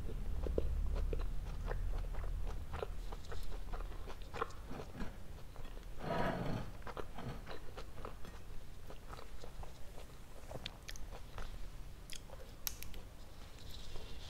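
Close-miked mouth sounds of someone chewing soft Indian sweets: irregular wet smacks and clicks, with one louder wet smack about six seconds in.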